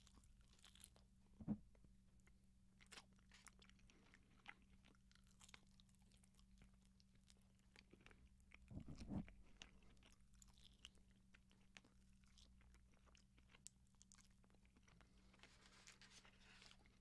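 Faint close-miked chewing and biting as roast chicken is eaten off the bone, a scatter of small wet clicks, with a louder low sound about one and a half seconds in and again near nine seconds.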